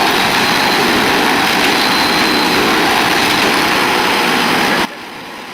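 Large forestry wood chipper running and shredding timber: a loud, steady mix of engine noise and grinding. It cuts off abruptly near the end.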